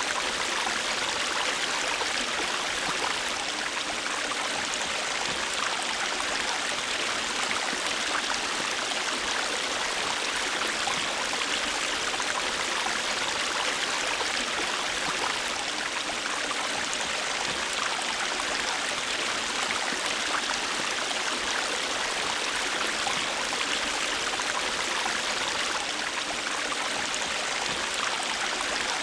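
A river's water flowing steadily over stones, a constant rushing with fine splashing and gurgling.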